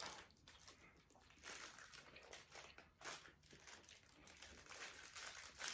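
Close-up eating sounds: faint crunching and chewing with irregular crackles, from someone eating takeout food.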